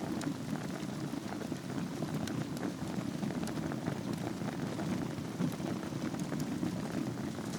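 Wood fire burning on a bed of embers in a fireplace: a steady low rush with frequent small crackles and pops scattered through it.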